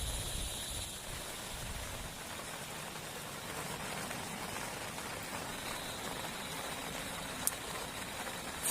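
Steady rain falling as an even hiss, with a low rumble fading out in the first two seconds and one sharp click near the end.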